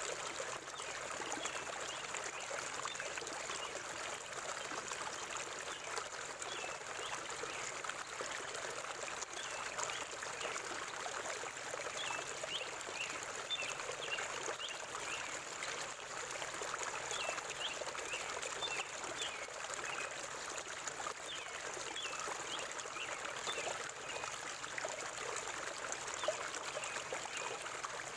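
Forest river flowing steadily, an even rushing and trickling of water.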